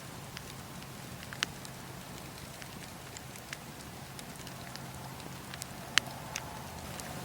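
Wood fire in a fireplace crackling: scattered sharp pops and snaps over a steady soft hiss, the loudest pop about six seconds in.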